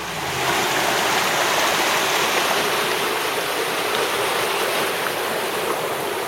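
Rain-swollen creek running high and fast: a steady rush of flowing water.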